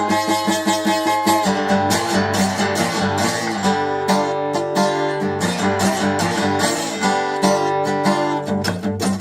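Acoustic guitar played with a slide, strummed in a steady rhythm with ringing chords.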